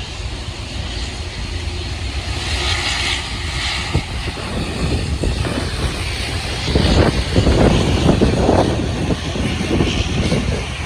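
Airliner's engines passing overhead, a rumbling roar that builds and is loudest about two-thirds of the way through, with a rough, crackling edge at its peak.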